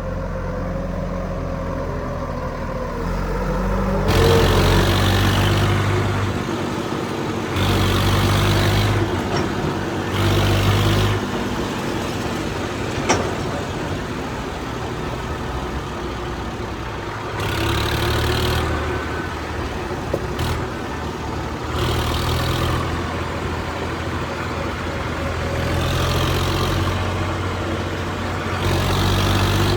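Heavy diesel engine running, revving up in repeated surges about seven times and dropping back between them.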